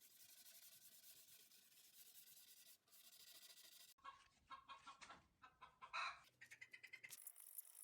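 Faint steady rubbing, like hand sanding, for about the first half, then after an abrupt change chickens clucking in a string of short calls.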